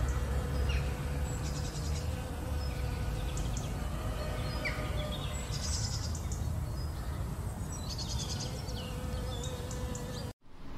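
A honeybee buzzing steadily around crocus flowers, with small birds chirping and trilling in the background. The sound cuts off abruptly near the end.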